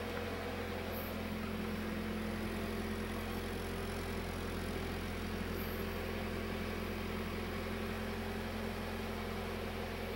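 Nissan Silvia S13's non-turbo engine idling steadily through its stock muffler.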